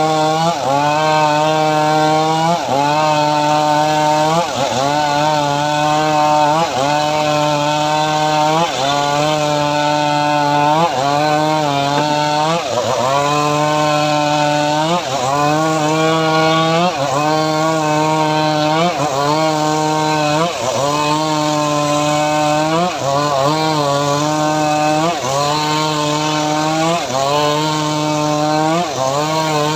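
Homemade engine-driven srekel saw running continuously while cutting mahogany, its engine pitch dipping and recovering about every two seconds as the load comes and goes.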